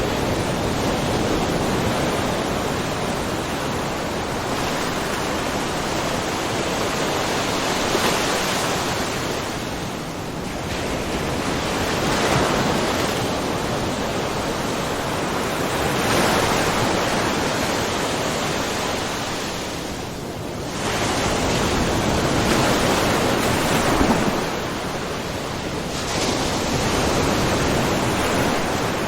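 Small ocean waves splashing and washing in a cove: a continuous rush of water that swells and eases every few seconds, with a softer lull about a third and two thirds of the way through.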